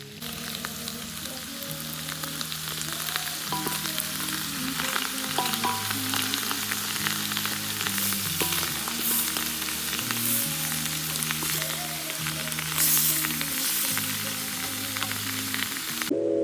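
Food sizzling as it fries in a pan, with scattered small clicks, over soft background music.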